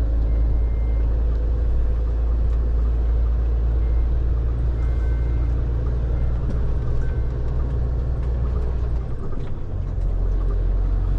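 JH6 truck's diesel engine running steadily as it drives, a continuous low drone that dips briefly about nine seconds in.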